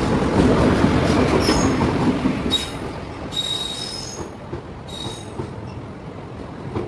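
Passenger train entering a station: the electric locomotive's loud rumble as it passes, then the coaches rolling by more quietly, with high-pitched wheel squeals four times, one lasting about a second, as the train slows into the platform.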